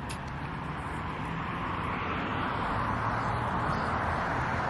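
Steady rush of a motor vehicle's engine and tyre noise, slowly growing louder, as of traffic going by.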